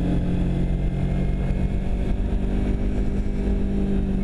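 Motorcycle engine running at a steady speed while riding, with low wind rumble on the microphone.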